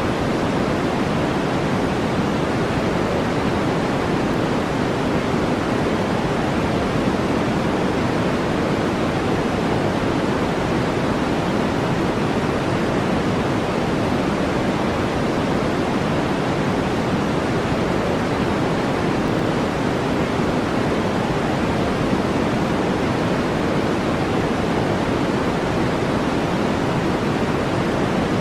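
Steady brown noise: a constant, even rush, deepest and strongest at low-middle pitches and softer toward the top, with no changes or separate sounds.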